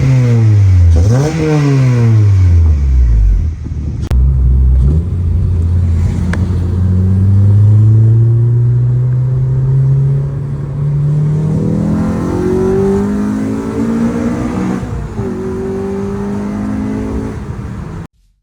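2009 Honda Civic Si's 2.0-litre four-cylinder engine revving: a few quick rises and falls in pitch, then a long steady climb in revs, before the sound cuts off suddenly near the end.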